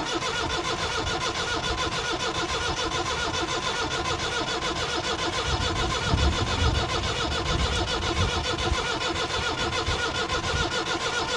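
Starter cranking a Perkins 4.203 four-cylinder diesel in a rapid even rhythm for about eleven seconds without it catching, with a steady squeal over it. The engine is not firing, which the mechanics take to be fuel starvation, with air in the fuel system between the lift pump and the tank.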